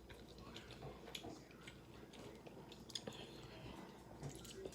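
Faint eating sounds: soft chewing and scattered small wet mouth clicks, several seconds apart.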